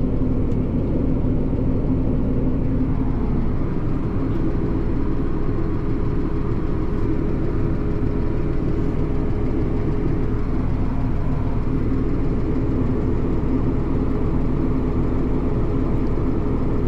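Tractor engine running steadily at raised revs, turning the grain cart's unloading auger through the PTO as the last of the wheat is emptied.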